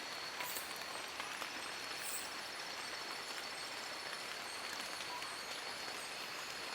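Steady rain falling on forest leaves: an even hiss with scattered small drip ticks, and a thin steady high tone above it.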